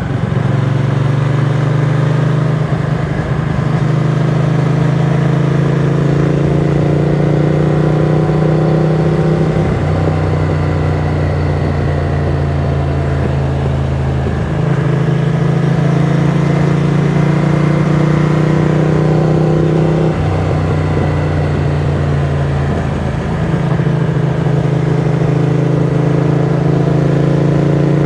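Ducati Monster 695's air-cooled L-twin engine running on the move through a Mivv X-Cone aftermarket exhaust. Its note climbs slowly and shifts abruptly to a new pitch several times, about every five seconds.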